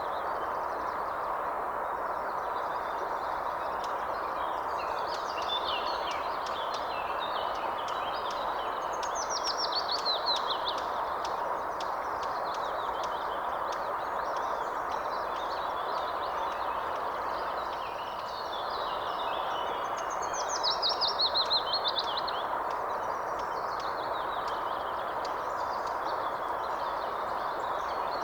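Songbirds singing and chirping over a steady, even background noise. A fast, falling trill stands out twice, about ten seconds in and again about twenty seconds in.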